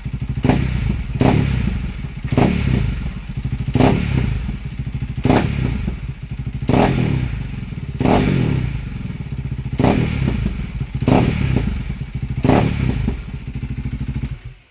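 KTM Duke 390's single-cylinder engine through an Arrow exhaust with no dB killer and no catalytic converter, idling loudly and blipped on the throttle about ten times, roughly once every second and a half. It cuts off suddenly near the end.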